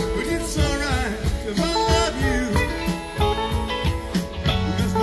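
Live rock band playing an instrumental stretch between vocal lines, a guitar to the fore with bending notes over bass and drums.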